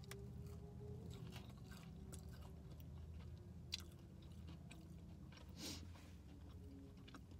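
Close-miked chewing of a bite of breaded fried chicken finger, with soft crunches and small mouth clicks; one sharp click about halfway through. A low steady hum runs underneath.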